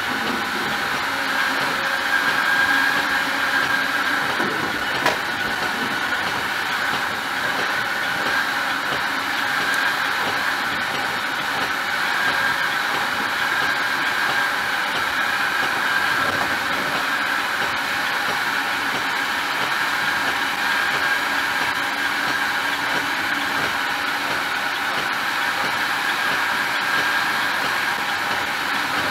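Metra commuter train running at speed, heard from inside the car: a steady rolling rumble and rail noise with a faint steady hum, and one sharp click about five seconds in.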